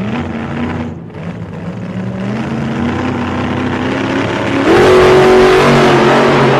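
A motor vehicle engine revving, swelling suddenly with a rising pitch about two-thirds of the way through and then holding steady.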